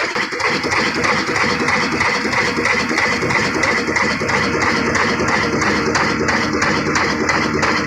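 Old single-cylinder desi diesel engine of the black 'Kala' type running steadily, with a regular beat of about two to three strokes a second over a loud mechanical clatter.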